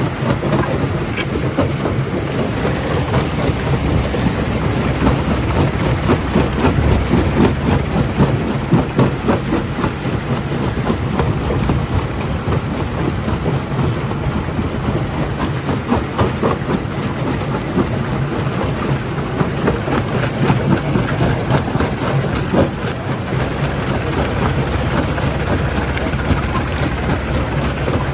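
Stone crusher breaking rock: a continuous rumble full of dense crackling and clattering of stone, over a steady low machine hum.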